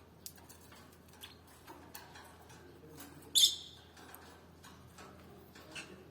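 Cage birds: scattered faint ticks and light chirps, with one short, loud, high-pitched call about three and a half seconds in.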